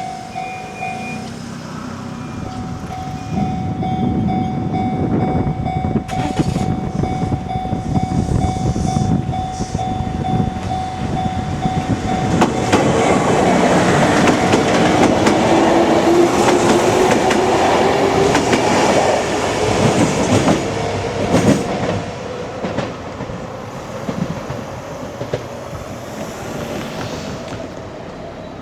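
A Kintetsu Minami Osaka Line train passing over a level crossing, its wheels clicking over the rail joints, with the crossing's warning bell ringing steadily through the first half. From about halfway a whine rises steadily in pitch, and the train fades near the end.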